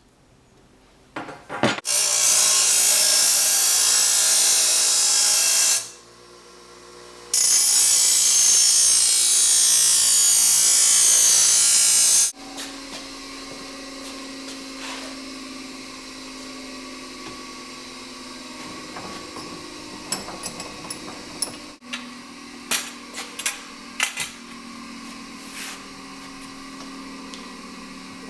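A power tool cutting steel for the hoe's blade, run in two steady bursts of about four and five seconds. After that comes a much quieter steady hum with scattered clicks and taps.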